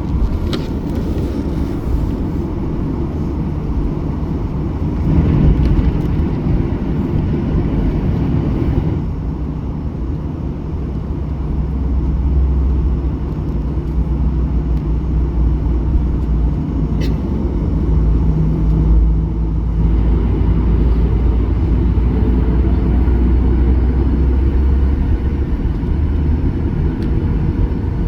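Boeing 737-800 cabin noise: a steady low rumble of jet engines and airflow, a little louder from about halfway through.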